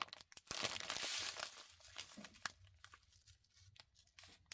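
Plastic packaging crinkling and rustling as a diamond painting kit's small bags of drills are handled. It is loudest in the first second and a half, then thins to a scattering of lighter crinkles and clicks.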